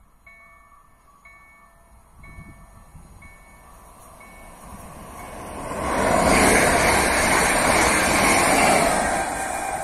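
Level-crossing warning bell ringing about once a second, fading out as an electric multiple unit approaches. The train then passes close by at speed, its noise swelling to loudest about six seconds in and staying loud to the end.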